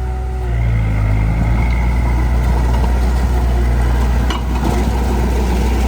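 Heavy machine's engine running steadily with a deep, even hum, picking up slightly about half a second in.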